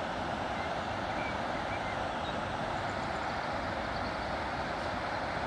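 Steady outdoor rushing background noise with a few faint, short bird chirps.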